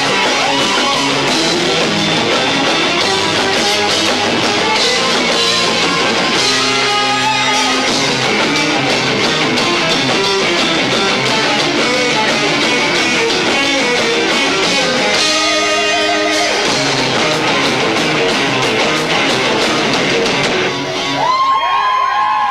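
Live rock band with two drummers playing loud, distorted electric guitar over drums, captured lo-fi through a 1990s camcorder's built-in microphone. The song stops about a second before the end.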